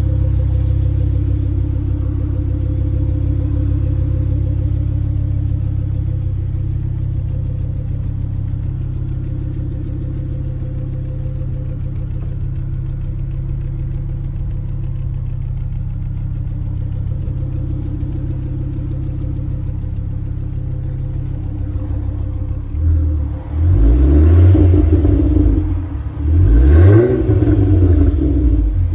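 Ford Focus RS engine idling steadily, then revved in several quick blips near the end, the pitch sweeping up and falling back each time.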